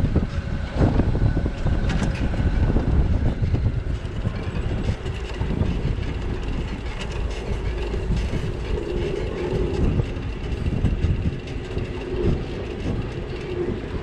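Steady rumble and rattle of a ride on a bicycle over city streets, with traffic noise around it. A steady hum joins in about halfway through.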